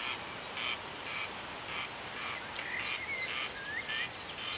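Birds calling: a short, coarse call repeated about twice a second, with thin chirps and brief whistles of small birds between the calls.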